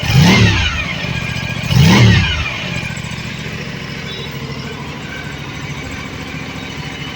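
Aprilia Tuono 457's parallel-twin engine idling, blipped twice near the start with quick throttle revs that rise and fall back, then ticking over steadily at idle.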